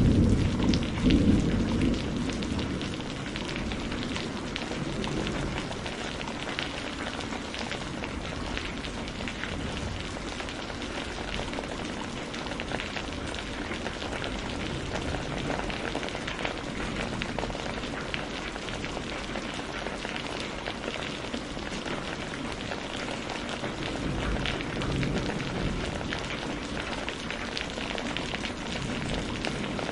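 Steady rain with many small crackles and drips over it, as from a wood fire burning. A loud low rumble dies away over the first couple of seconds.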